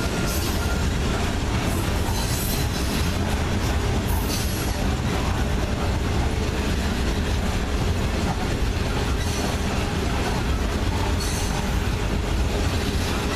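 Loaded coal hopper cars of a freight train rolling past on steel rails: a steady rumble of wheels on track, with a few brief high wheel squeals now and then.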